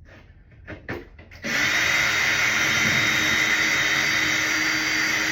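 Power drill running steadily for about four seconds, starting suddenly about a second and a half in, backing out a screw from a shower door frame that she takes for stripped. A couple of short clicks come before it.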